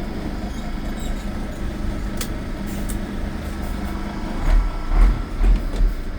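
Scania R420 truck's 12-litre inline-six DT12 diesel engine running steadily, with a few heavy low rumbles in the last two seconds.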